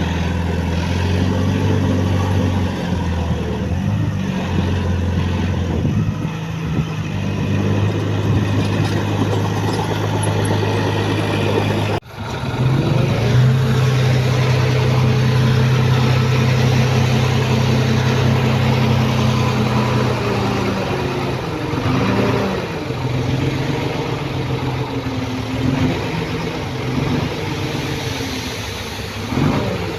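Diesel engine of a heavy earthmoving machine running under load. About halfway through the sound breaks off abruptly, then the engine revs up and holds a steady higher pitch, eases back down, and rises and falls briefly a few times near the end.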